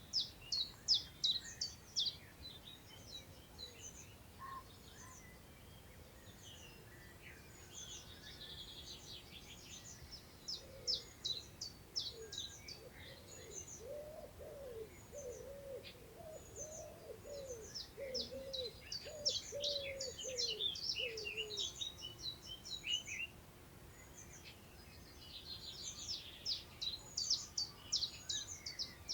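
Songbirds singing, with quick, high chirping phrases coming in bursts. In the middle a lower-pitched bird call of short, arched notes repeats rapidly for about ten seconds. Light wind in long grass makes a soft background hush.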